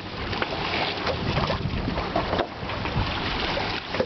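Steady rushing noise of a boat under way on open water, with wind buffeting the microphone and brief splashy streaks scattered through it.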